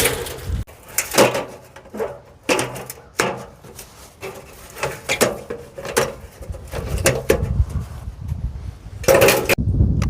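Irregular clanks and knocks of scrap pieces being picked up and set down, with a louder clatter about nine seconds in.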